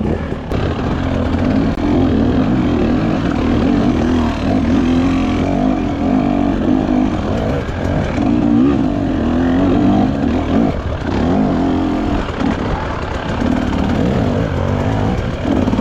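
Dirt bike engine running near idle, its pitch wavering and rising briefly several times with small throttle blips.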